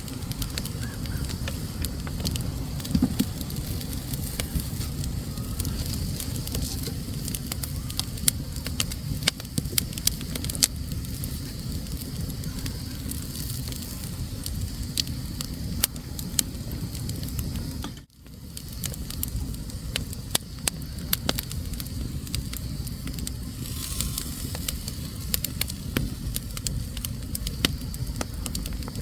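Wood fire burning in a fireplace: a steady low rumble of flames with frequent sharp crackles and pops of burning logs. The sound briefly drops out about eighteen seconds in.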